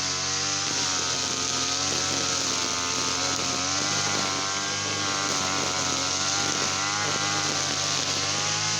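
Small two-stroke engine of a garden machine running steadily, its pitch wavering slightly up and down.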